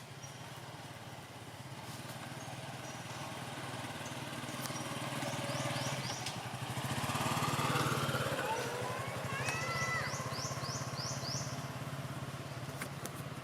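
A small engine, like a motorbike's, runs steadily, growing louder to a peak about eight seconds in and then easing off. Birds chirp in quick runs of high notes over it.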